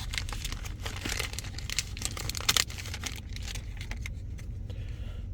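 A Donruss baseball card fat pack's wrapper being torn open, with quick crinkling and crackling, busiest in the first three seconds and thinning out after.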